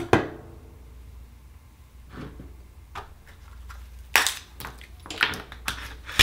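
Scattered clicks, knocks and clatter of Akoya oyster shells and a metal tool being handled as an oyster is pried open, with a cluster of sharper knocks in the last couple of seconds.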